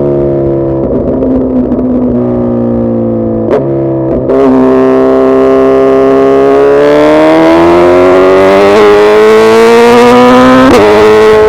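Suzuki Hayabusa's inline-four engine running under load with quick gear changes, then one long pull rising steadily in pitch before another shift near the end.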